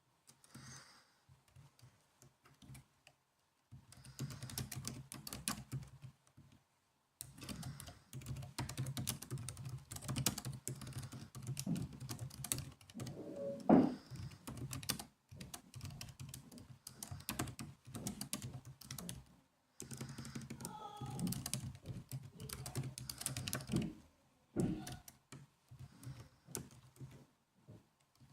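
Typing on a laptop keyboard: runs of quick key clicks with short pauses between them, starting a few seconds in.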